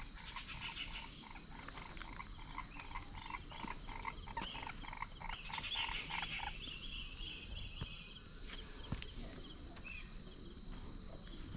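Frogs calling in a run of short, evenly repeated croaks, about two or three a second, that stops a little past the middle, over a steady high-pitched insect drone.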